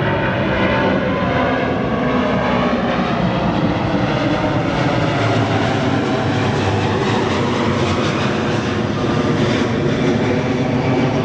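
Airliner's engines running loud and steady as it moves along the runway, with faint tones in the noise drifting slowly in pitch.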